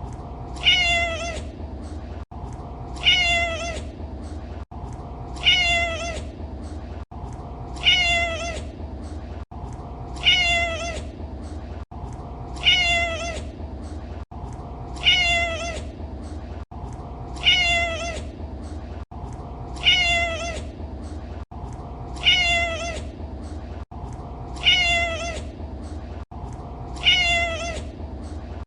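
A domestic cat's meow, one short call rising then falling, repeated identically about every two and a half seconds as a loop, over a steady low background hum.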